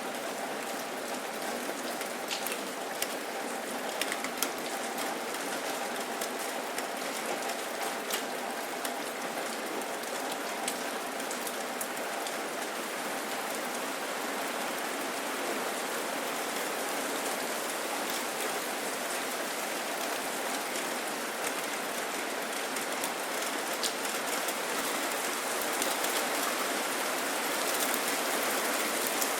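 Steady rain falling, with a dense hiss and many single drops ticking on a surface. It gets slightly louder near the end.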